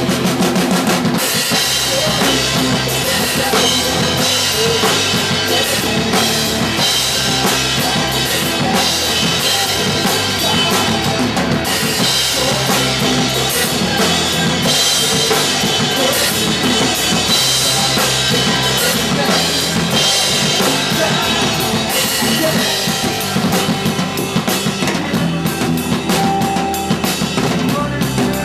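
A punk rock band playing live and loud, the drum kit driving a steady beat of bass drum and snare under the dense, continuous sound of the full band.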